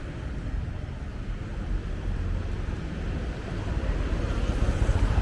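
Street traffic: a steady low rumble of passing vehicles that grows louder over the last couple of seconds as a vehicle draws near.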